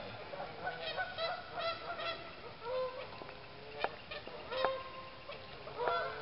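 Geese honking, a rapid series of short repeated calls, over the steady rush of creek water.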